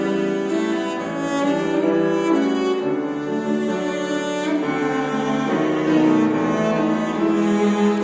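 Solo cello playing a lyrical melody in long held notes, with piano accompaniment.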